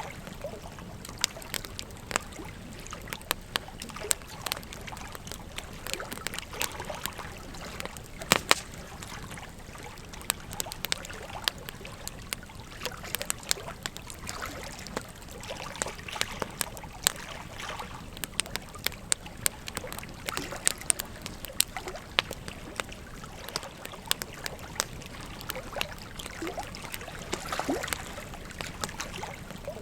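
Wood fire crackling with frequent sharp pops, the loudest about eight seconds in, over the steady rush of flowing river water.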